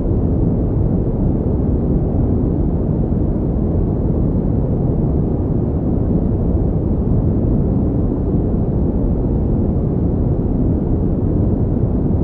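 Steady pink noise: an even, unbroken rushing hiss, weighted toward the deep end, with no change in level.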